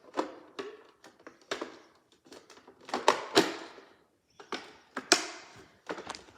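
Hard plastic parts of a toy washing machine being handled, giving a string of irregular clicks and knocks with a few short scrapes, loudest about three seconds and five seconds in.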